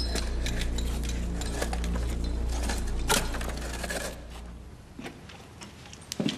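Irregular metallic clinks and knocks, like chains and shackles rattling, with one sharper knock a little after three seconds. A low steady hum runs beneath them and stops about three-quarters of the way through.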